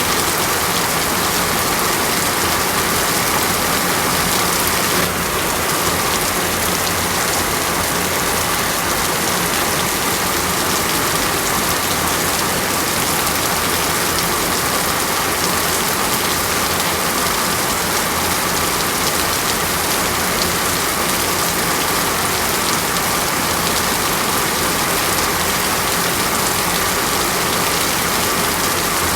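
Steady rain falling, a dense, even hiss without thunder.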